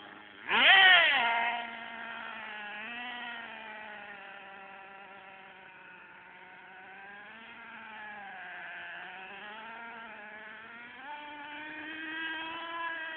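Electric motor and drivetrain of a HIMOTO MegaP RC monster truck whining. A loud, sharply rising burst comes about half a second in, then the whine holds steadier and drifts up and down in pitch with the throttle.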